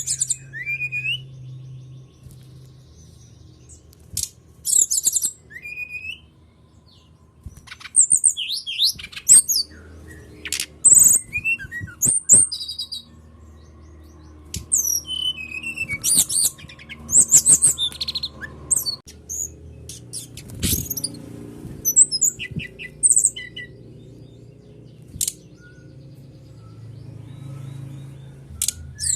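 Brown-chested jungle flycatcher (sikatan rimba dada coklat) song: quick high chirps and trills in short phrases with brief pauses between them, played as a lure to set a kept bird singing.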